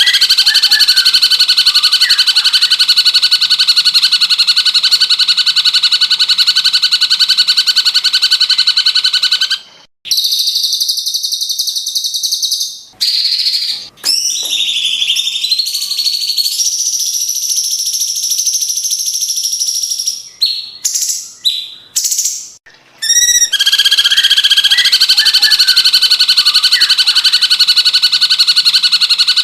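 Cucak cungkok song: a long, very fast, even trill held for about ten seconds, then a stretch of varied higher chirps and short calls broken by brief gaps, then the fast trill starts again about 23 seconds in.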